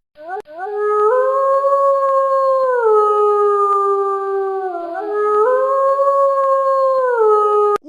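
Wolf howling: long, held howls that sustain a pitch and then slide down. A second howl briefly overlaps about five seconds in.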